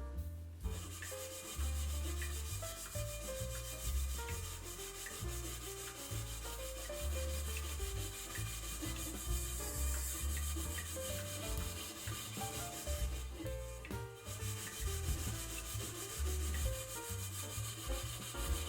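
Continuous scrubbing: a brush or sponge rubbed back and forth over a hard surface, over background music with short melodic notes and a steady bass.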